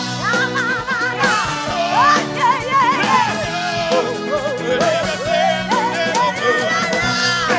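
Pop band music: a wavering melodic lead line with vibrato over sustained chords and a steady beat, with no sung words.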